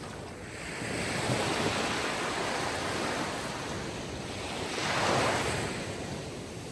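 Sea waves breaking and washing up the shore: one surge builds about a second in, and a second, louder wave peaks about five seconds in before ebbing away.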